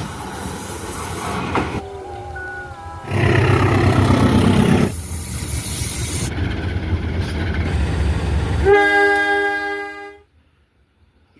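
A train running on the rails in several abruptly cut segments of loud rumbling rail noise. Near the end comes one long blast of the locomotive horn, which cuts off suddenly.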